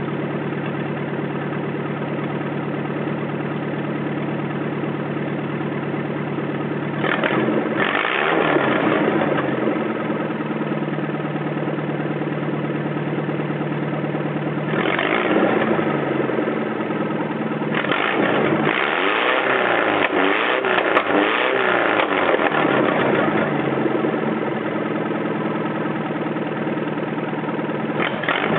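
Toyota 12R four-cylinder engine running with no exhaust fitted, loud and raw. It idles steadily, then is revved up and let fall back: once about a quarter of the way in, again around halfway, in a longer series of blips after that, and once more at the very end.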